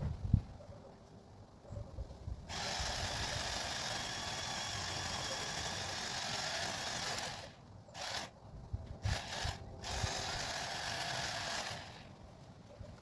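Saw chain cutting into a tree limb: a steady cut of about five seconds, a few short bursts, then another steady cut of about two seconds that stops near the end. A couple of low thumps come at the very start.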